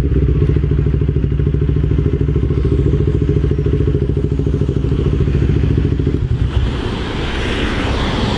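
A 500 cc motorcycle engine idling with a steady fast pulse, switched off about six seconds in, leaving a steady hiss of rain.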